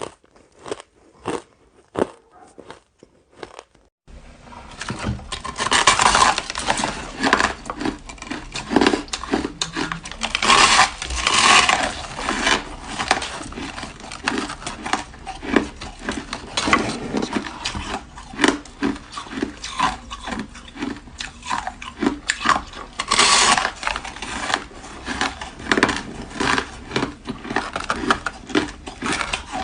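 Close-up crunching and chewing of flavoured shaved ice. There are a few separate crisp crunches at first, then from about four seconds in the crunching becomes dense and continuous over a steady hiss.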